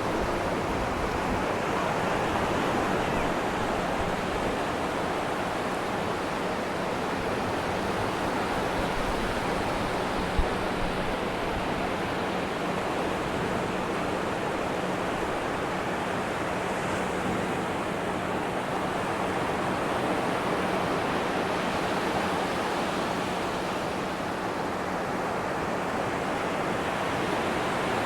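Atlantic ocean surf washing steadily onto a sandy beach, a continuous even hiss of breaking waves. A single brief click sounds about a third of the way in.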